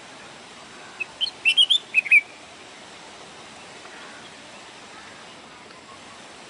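Sparrow chirping: a quick cluster of seven or eight sharp, high chirps about a second in, lasting about a second, over a steady background hiss.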